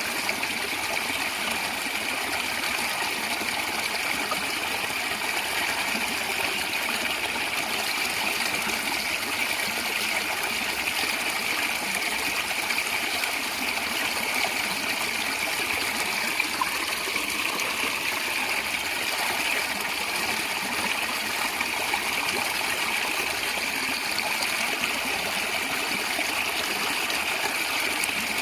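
Stream water flowing and gurgling steadily over rocks, a constant rushing with a bright trickling edge.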